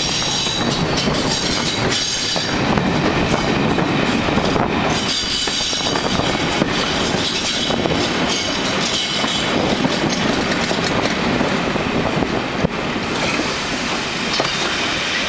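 Railway train rolling on the rails, the wheels squealing thinly in a high pitch over a steady rumble and clatter of the wheels on the track.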